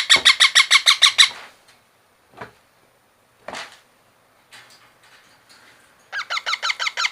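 Baby parrot's begging calls while being fed: rapid, evenly repeated high-pitched calls, about seven a second, in two bouts. The first ends about a second in; the second starts about six seconds in.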